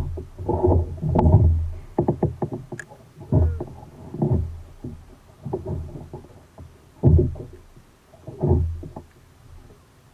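Water splashing and sloshing around a fishing kayak in regular surges, about one every second and a half.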